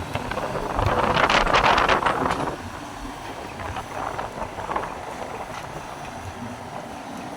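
Caterpillar 320D excavator working, with a loud burst of rattling and clanking from about one to two and a half seconds in, then a few fainter clanks near four seconds, over a steady low rumble.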